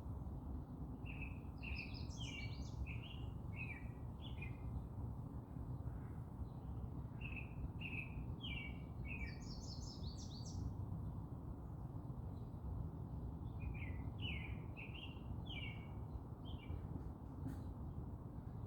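A songbird singing three short phrases of quick chirps, with a brief higher, thinner burst about ten seconds in, over a steady low background rumble.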